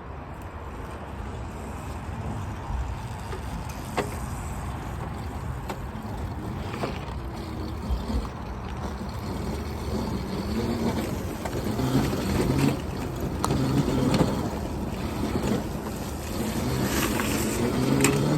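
Electric dirt bike motors whining while riding a dirt trail, their pitch rising and falling with speed, over a steady rush of wind and tyre noise. There is a sharp knock about four seconds in, and the whine grows louder toward the end.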